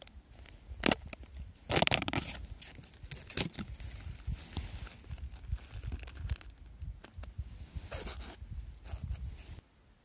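Close handling noise: rustling and crinkling with scattered sharp clicks and knocks, loudest about two seconds in. It stops just before the end.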